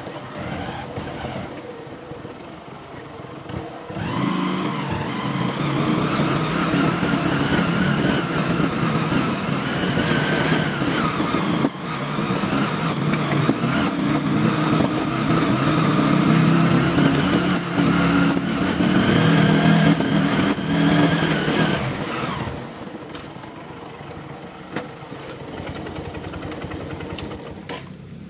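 Honda Verza's 150 cc single-cylinder four-stroke engine pulling the motorcycle up a rough cobblestone track, its pitch rising and falling with the throttle. About 22 seconds in it drops to a much quieter running sound, with scattered knocks and rattles near the end.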